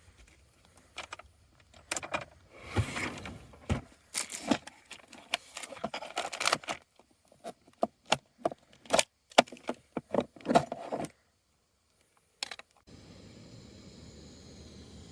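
A jangling, clattering run of sharp clicks and rattles, like keys or small metal objects being handled, for about ten seconds. After a brief silence and one more click, a steady hiss starts.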